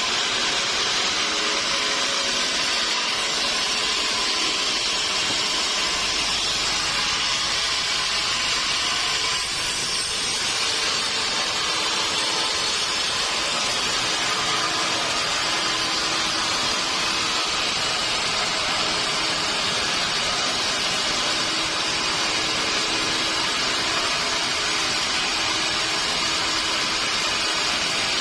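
Sawmill saw running steadily with a hissing, whining noise, typical of a log being cut.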